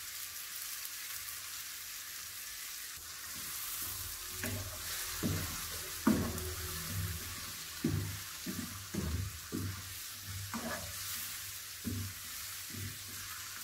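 Sliced mushrooms, onion and crushed garlic sizzling in butter and oil in a pan. From about four seconds in, a wooden spatula stirring them scrapes and knocks irregularly against the pan.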